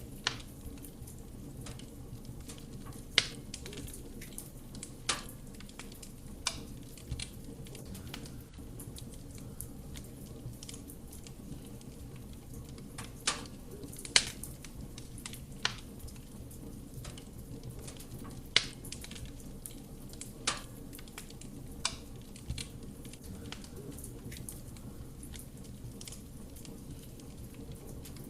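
Wood fire burning in a fireplace: a steady low rumble of flame with sharp crackles and pops from the burning wood every second or two.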